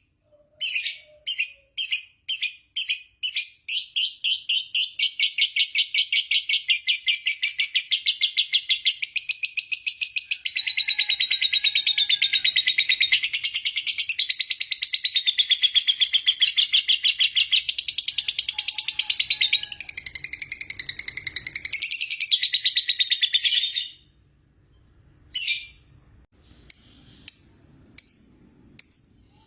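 Lovebird giving its long 'ngekek' chatter: a run of shrill chirps that speeds up into one unbroken rapid trill lasting about twenty seconds, then cuts off abruptly and gives way to a few separate chirps near the end.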